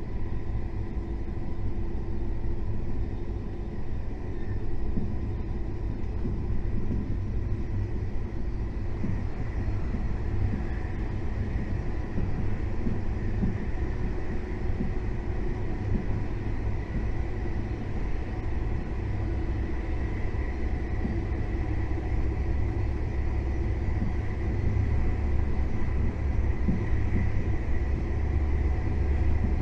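KTX high-speed train running at speed: a steady low rumble with a faint steady whine above it, growing slightly louder near the end.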